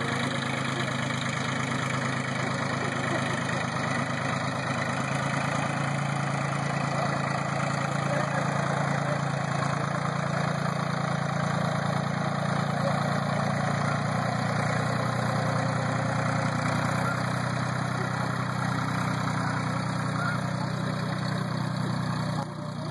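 Tractor engine running steadily at low revs, its pitch rising slightly a little past halfway through.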